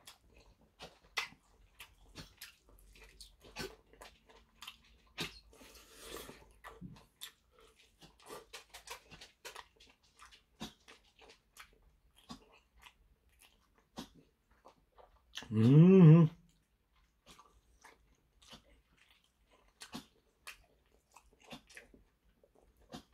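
Close-miked chewing and wet lip smacks of a man eating chicken drumstick meat, many small clicks. About two-thirds through comes one short, loud pitched vocal sound, the loudest thing heard.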